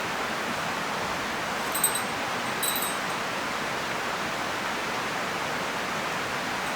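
A steady rushing noise, with two brief, high, ringing metallic clinks about two and three seconds in.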